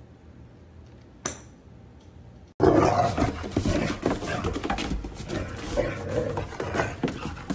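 Quiet room tone with one short, sharp high squeak about a second in. Then an abrupt jump to a loud, rough dog sound, growling mixed with scuffling and quick irregular knocks, to the end.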